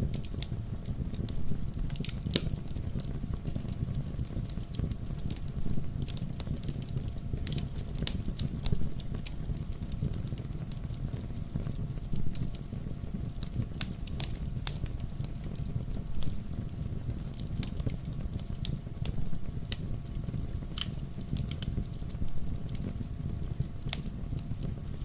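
Fireplace fire crackling: frequent short pops and snaps over a steady low rumble of burning.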